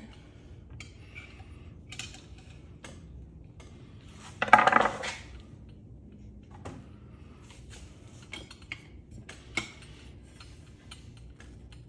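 Scattered small metal clicks and clinks of ceiling fan parts being handled and worked at, with one louder rattling clatter of metal about four and a half seconds in.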